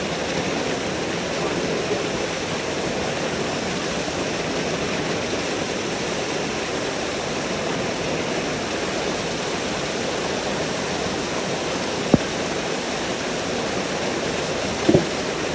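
Waterfall: a steady rush of falling water, with one sharp click about twelve seconds in.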